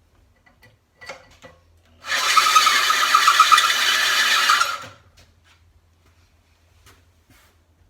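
Electric drill boring a hole through a steel plate, running steadily for about three seconds with a motor whine over the cutting noise. A few light clicks come just before it.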